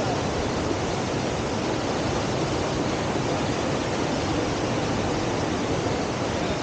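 Steady rush of whitewater from a standing river surf wave, an even roar that doesn't change.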